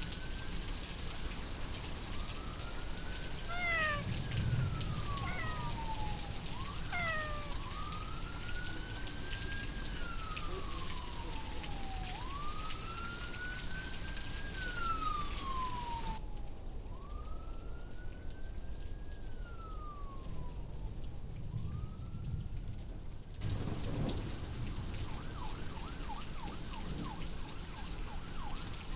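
Steady rain with a siren wailing, its pitch rising quickly and falling slowly over and over, about one cycle every four seconds. Low thunder rumbles a few seconds in and again about three quarters of the way through.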